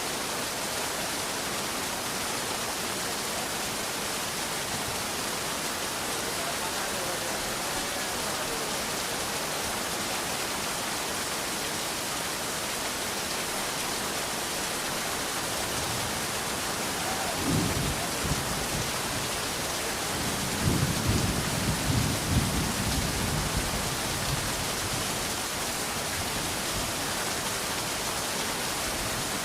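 Steady rain falling as a continuous hiss. Thunder rumbles low beneath it from about halfway through, rolling for several seconds and then dying away.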